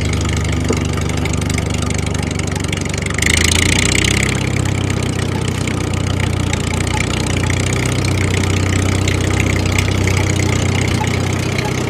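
A homemade mini tractor's small engine running steadily at idle. About three seconds in, a brief hiss comes up and the level rises a little.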